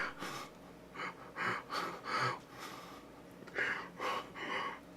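A man's soft, short breaths and gasps, about eight in a row with pauses between them.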